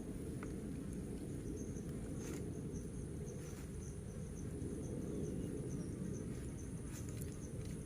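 Insects chirping in a steady pulsing trill, with a higher steady whine above it, over a constant low rumble; a few faint clicks.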